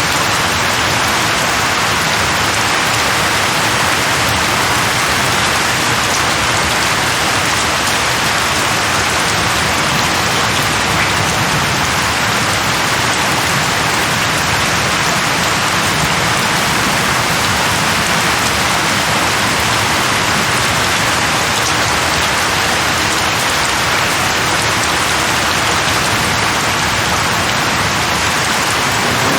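Steady heavy rain falling on a surface, an even continuous hiss.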